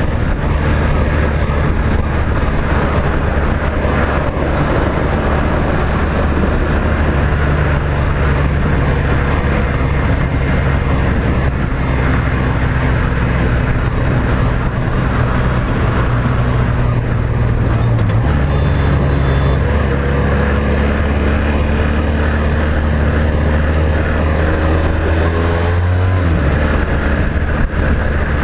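Honda VFR1200F V4 engine running at highway cruising speed, heard from the rider's seat with steady wind rush. The engine note changes abruptly about two-thirds of the way through and falls away near the end as the throttle comes off.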